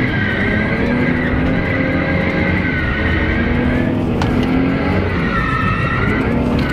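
Car engine revving up and down while its tyres squeal in a drift.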